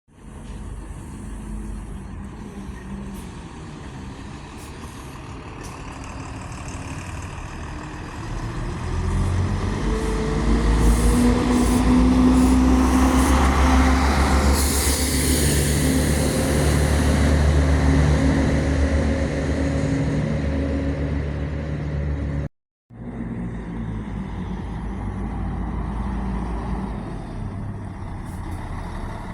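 A bus passes close by with its diesel engine running: the engine builds up about eight seconds in and is loudest in the middle. Partway through there is a burst of air-brake hiss. After a sudden cut, quieter traffic noise carries on.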